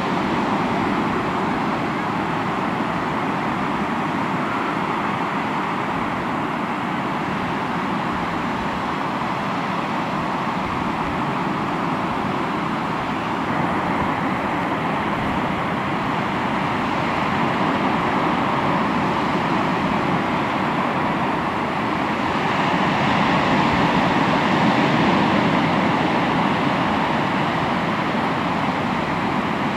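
Sea surf washing on the shore in a steady rush, swelling louder about three-quarters of the way through.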